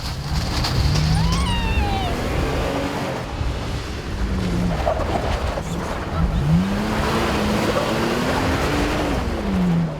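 Race truck engine revving, its pitch rising and falling twice, the second time higher and longer, over a steady roar of engine and tyre noise.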